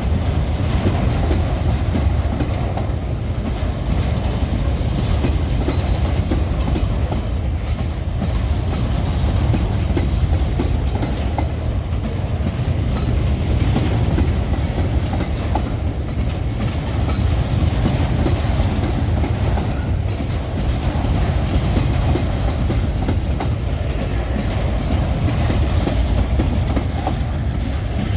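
Empty freight wagons rolling steadily past on the rails, wheels clicking and rattling over the joints above a continuous low rumble.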